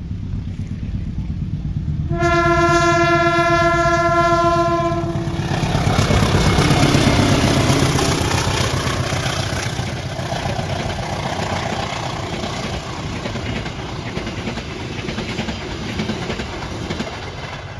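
Train horn sounding one long steady blast of about three seconds over a low rumble, followed by the louder noise of the train rolling past on the rails.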